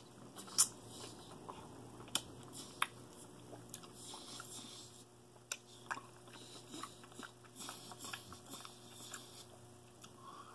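A person chewing and eating juicy blood orange segments: wet mouth sounds with scattered sharp clicks, over a faint steady hum.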